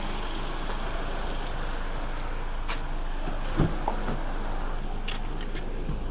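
Steady background hiss with a few scattered light clicks and one brief knock about three and a half seconds in, typical of handling noise while moving around the truck.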